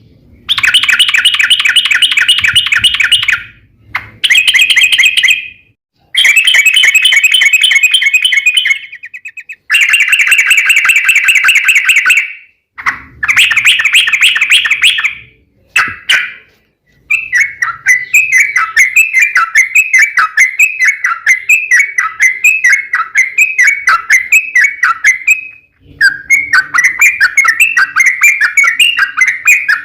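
Yellow-vented bulbul (trucuk) song: several loud, fast chattering phrases of two to three seconds each with short breaks. About halfway in these give way to a long unbroken run of rapid rising-and-falling notes, the long 'ropel' run used to lure other trucuk to answer.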